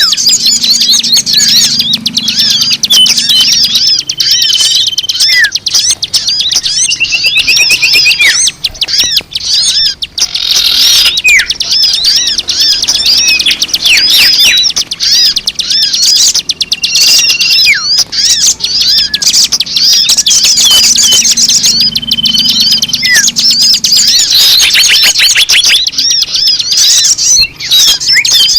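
Bird-lure recording: a dense chorus of many small birds chirping and twittering rapidly, with short high whistles. The same stretch of chorus comes round again about every 18 seconds, as a looped recording.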